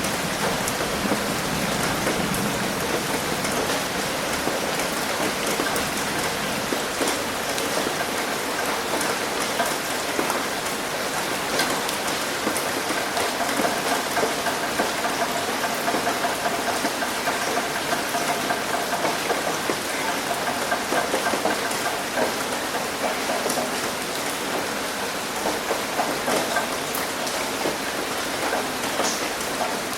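Steady rain hitting a roof, a dense patter of many small, sharp drop impacts.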